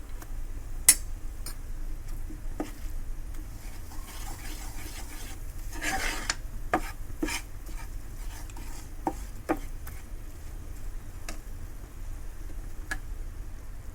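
A spoon stirring and scraping flour frying in ghee in a pan, making a roux for white sauce. There are scattered sharp clicks of the spoon against the pan, the loudest about a second in, and a longer stretch of scraping near the middle.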